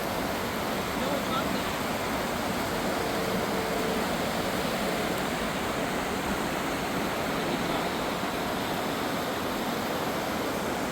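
Steady rushing of the Truckee River's rapids.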